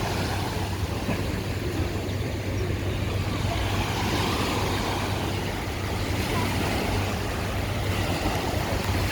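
Steady street noise: a low rumble of wind buffeting the microphone mixed with road traffic, with a vehicle swelling past about four seconds in.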